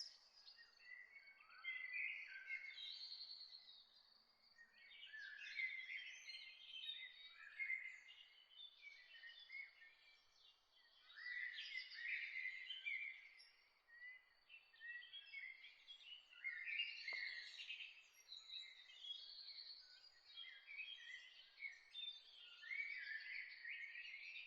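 Songbirds chirping in a dawn chorus: many short, overlapping high chirps and trills in repeated phrases, rising and falling in loudness every few seconds.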